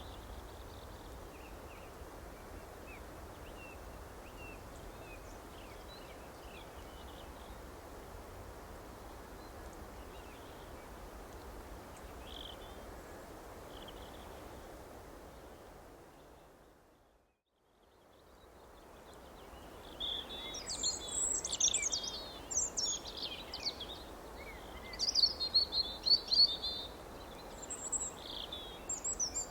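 Songbirds chirping faintly over a steady background hiss. A little past halfway the sound fades out to silence, then fades back in with much louder, busier chirping and twittering.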